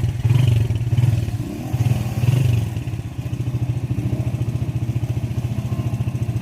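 Motorcycle engine running, its revs rising and easing a few times in the first half, then holding steady.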